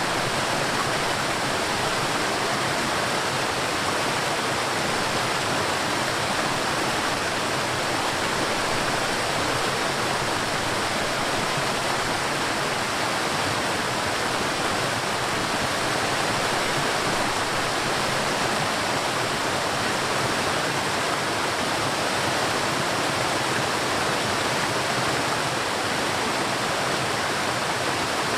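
River water rushing steadily over rocks, a constant even rush with no change in level.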